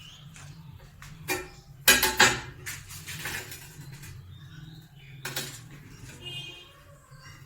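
A few sharp clatters and knocks, like hard objects being handled, the loudest cluster about two seconds in, over a low steady hum.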